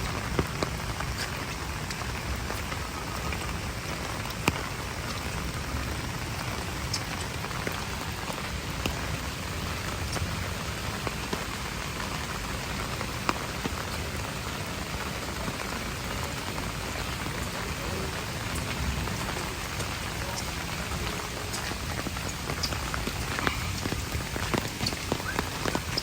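Steady rain falling, with scattered sharp drop hits on nearby surfaces.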